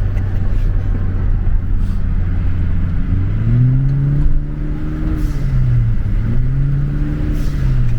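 2017 Honda Civic's turbocharged 1.5-litre four-cylinder engine pulling hard twice, its pitch rising and then dropping back each time, over a steady drone of engine and road noise.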